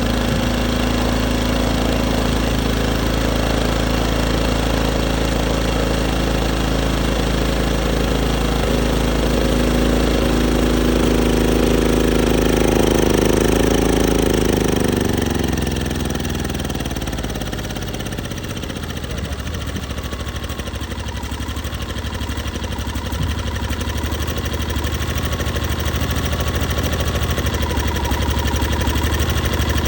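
Westinghouse 2500 inverter generator's small engine running, its speed creeping up and then sagging away about fifteen seconds in, before it carries on at a lower, rougher speed. The generator is running mostly on starter fluid, which the owner puts down to a bad carburetor and a fuel filter in need of replacing.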